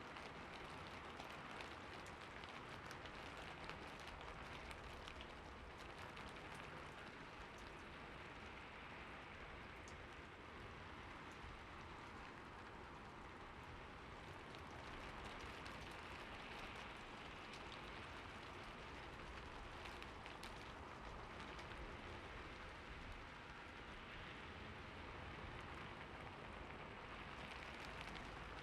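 Steady rain falling, with a constant hiss and many small drops pattering on a surface.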